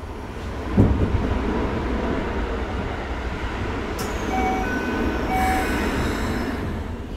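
A train rushing past close outside a standing commuter train car, heard from inside the car. A sudden rush of noise about a second in, rattling and running noise through the middle with a few short steady tones and a sharp click, easing off near the end.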